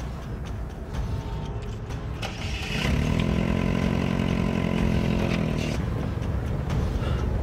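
Car engine starting: a short burst of cranking about two seconds in, then the engine catches and runs with a steady hum that eases down about three seconds later.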